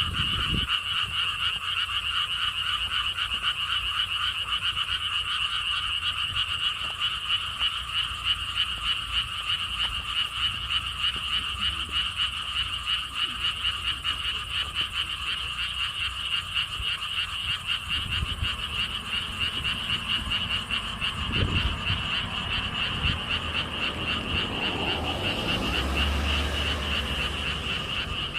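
A dense chorus of frogs calling together, many rapid overlapping pulsed croaks forming an unbroken, fairly high-pitched trill. Low rumbling sounds come in underneath during the second half.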